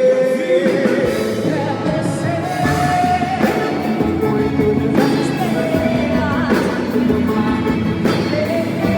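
Live band music with a singer holding long notes of a slow love song.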